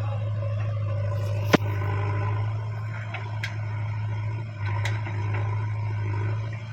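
JCB backhoe loader's diesel engine running steadily, with three sharp metallic clicks over it.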